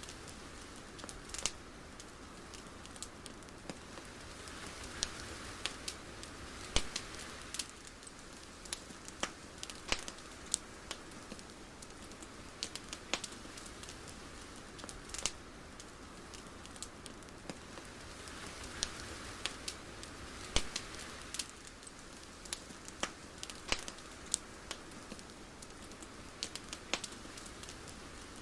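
Soft, irregular crackling: scattered sharp clicks and pops over a faint steady hiss that swells gently twice.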